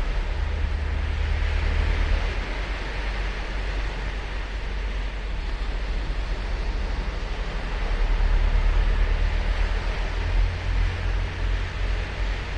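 Ocean surf on a sandy beach: a steady wash of breaking waves, swelling about two seconds in and again near eight to ten seconds, over a deep rumble.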